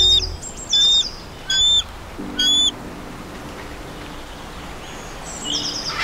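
A bird calling: four loud, short, high-pitched calls, evenly spaced under a second apart, in the first three seconds, then a fainter burst of calls near the end.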